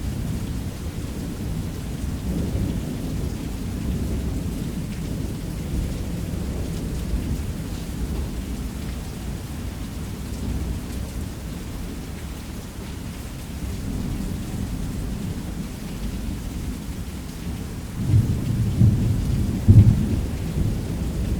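Thunderstorm: steady heavy rain with a continuous low rumble of thunder. A louder roll of thunder builds about 18 seconds in and peaks near 20 seconds.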